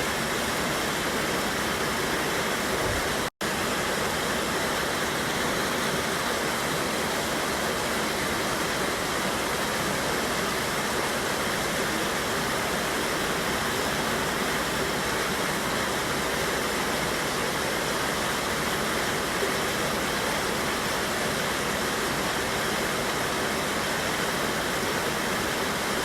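Steady rush of a mountain river's waterfall, white water pouring over rocks without change. The sound cuts out for an instant a little over three seconds in.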